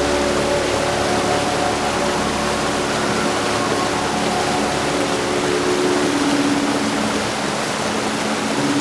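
Heavy rain falling in a steady, even hiss, with soft held tones of background music underneath.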